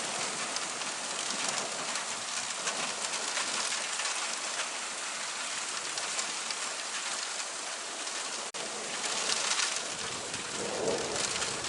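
Steady heavy rain falling and pattering on surfaces, an even hiss with a brief dropout about eight and a half seconds in.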